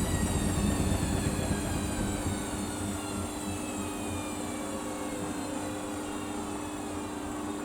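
Samsung washing machine's drum motor winding down, its whine falling steadily in pitch and getting quieter as the drum slows, over a steady hum.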